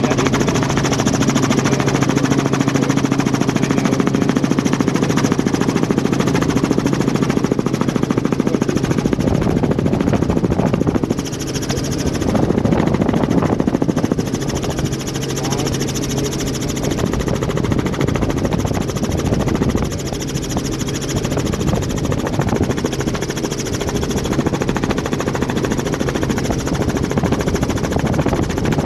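Helicopter in flight: the rotor's fast, even chop over a steady engine hum. The loudness dips briefly about eleven seconds in and again near twenty seconds.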